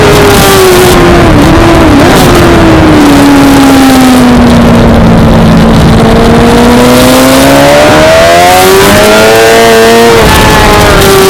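Suzuki GSX-R600 inline-four race engine, loud throughout. The revs fall over the first few seconds, with two short blips along the way, and stay low for a couple of seconds. They then climb hard, drop sharply about ten seconds in, and fall away near the end.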